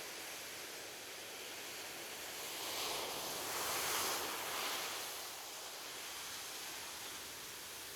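Ocean surf washing onto a beach: a steady hiss of water, with one wave swelling and breaking about three seconds in, then fading back.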